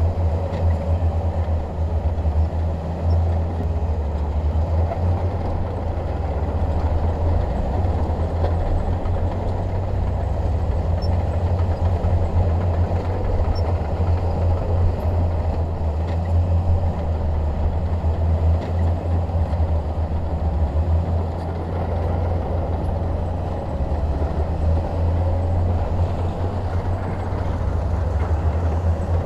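Shantui DH17 bulldozer's diesel engine running steadily under working load, a deep continuous drone whose level rises and falls slightly.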